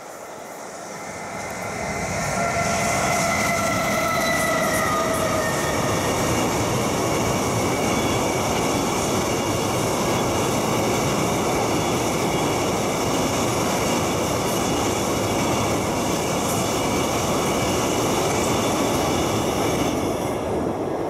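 Freight train of tank wagons hauled by an electric locomotive passing close by. It grows louder over the first couple of seconds, with the locomotive's whine falling in pitch as it goes past. Then a steady rumble of wagon wheels on the rails follows, with thin high ringing tones over it, easing slightly near the end.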